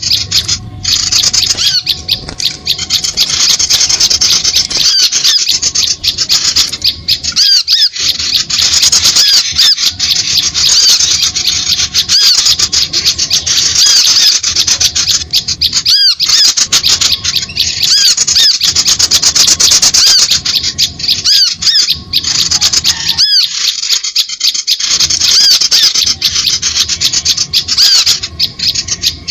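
Small-bird lure recording used for trapping with lime sticks: a loud, dense stream of rapid, high-pitched chirps and squeaky calls, many overlapping, running almost without a break.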